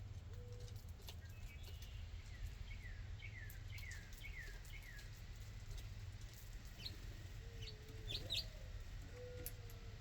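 Backyard birds calling: a run of about six quick falling chirps in the middle, with short low clucking notes near the start and end and a few sharp ticks later on, over a steady low background rumble.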